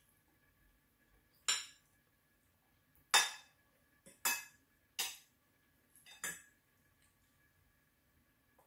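Metal spoon and fork clinking against dishes while eating: five sharp clinks with a short ring, a second or so apart, plus a couple of fainter taps.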